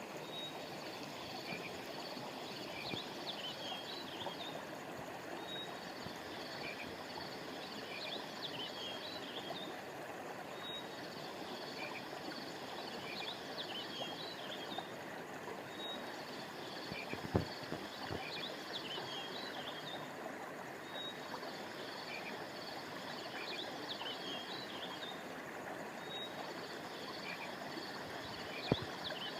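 Steady rush of flowing river water under high chirping calls that come in repeating phrases about every five seconds. Two sharp clicks stand out, one a little past halfway and one near the end.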